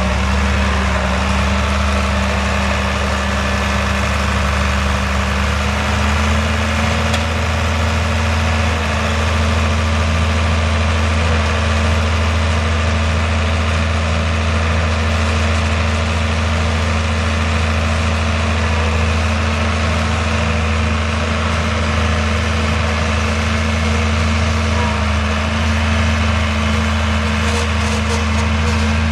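International 86-series high-clearance tractor's engine running steadily at idle, its speed stepping up slightly about six seconds in.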